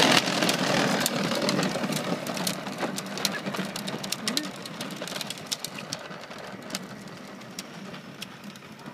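Battery-powered children's ride-on car driving off: its small electric motor whirring, with a steady hum and many sharp clicks and rattles from the wheels and body, fading as it moves away.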